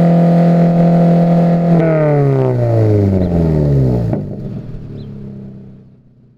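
2022 GR86/BRZ's FA24 flat-four through an AWE Track Edition catback exhaust (straight pipe with a mid-pipe resonator): engine held at steady revs, then revs falling away for about two seconds. About four seconds in it drops sharply in level and fades out.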